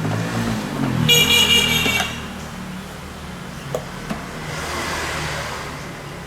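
A vehicle horn sounds once for about a second, shrill and buzzing, over the low hum of a running engine. Afterwards a swell of traffic noise rises and fades.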